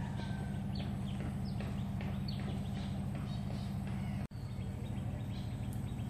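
Birds calling in short, falling whistled notes, repeated every second or so, over a steady low machine-like hum. The sound cuts out for an instant about four seconds in.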